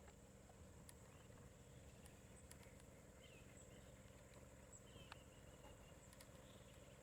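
Near silence: faint outdoor background with a steady high hiss and a few faint short chirps and clicks.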